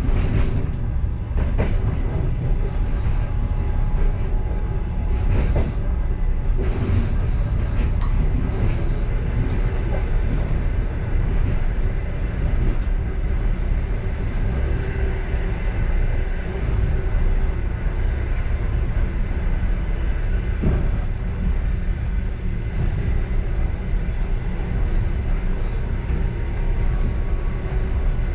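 A passenger train running at speed, heard from inside its last car: a steady low rumble of wheels on rail with scattered clicks and knocks.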